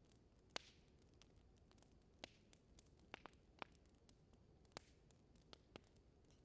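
Wood fire in an indoor fireplace crackling gently: a quiet steady hiss with sharp pops and snaps at irregular intervals, the loudest about half a second in.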